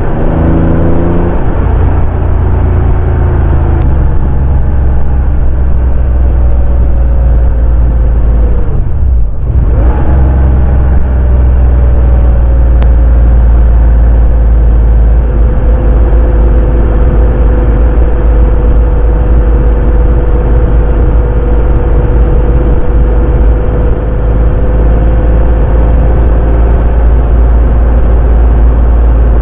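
Porsche 911 964's air-cooled flat-six engine pulling the car along the road, with a low rumble. The revs dip briefly about nine seconds in, then pick up and hold steady.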